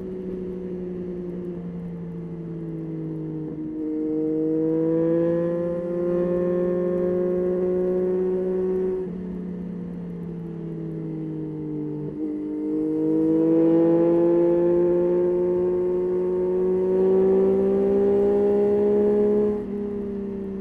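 Yamaha Tracer 9's 890 cc inline-three engine on the move, opening up twice with its pitch climbing steadily as it pulls. Between the two pulls and again near the end, it drops back off the throttle, quieter and lower.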